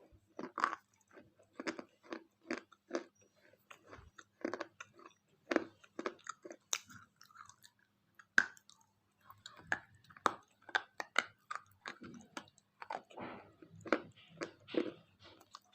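Close-up crunching and chewing of a KitKat chocolate wafer bar, about two sharp crunches a second, with a short lull near the middle and softer chewing after it.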